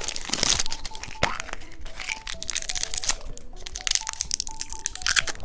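Crinkling and crackling of a Kinder Surprise egg being unwrapped and opened, with many quick sharp crackles. Light background music plays underneath.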